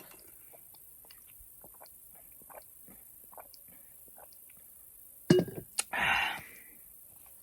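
Faint small clicks and taps of handling, then a knock about five and a half seconds in, followed by a short breathy rustle.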